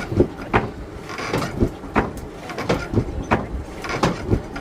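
Blacksmith's hammer striking metal on an anvil, sharp ringing blows about three a second at a slightly uneven pace.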